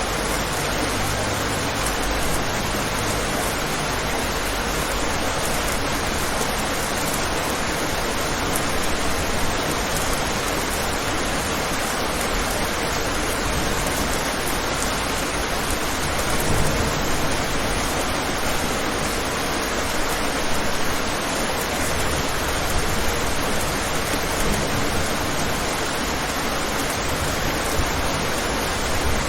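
Steady rain, an even unbroken hiss with a faint low rumble, with no distinct drops or thunder.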